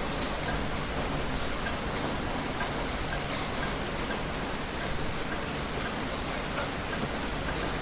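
Heavy rain falling steadily, a dense even hiss with scattered sharper drop hits on a surface.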